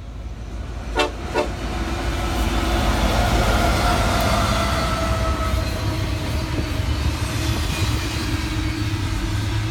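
A train rumbling past, the noise building from about two seconds in and then holding steady, with a faint drawn-out tone over it for a few seconds. Two sharp clicks come about a second in.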